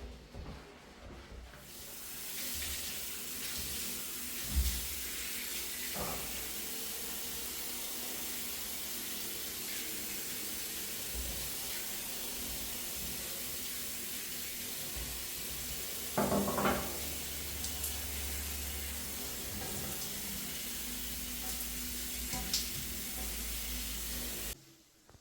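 Water running from a tap into a sink, a steady hiss that stops suddenly near the end, with a few knocks of objects in the sink, the loudest about sixteen seconds in.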